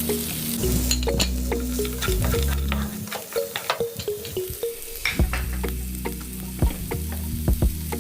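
Sliced onion, green chillies and cashew nuts sizzling as they fry in butter in a pan, with a spatula stirring and clicking against the pan many times.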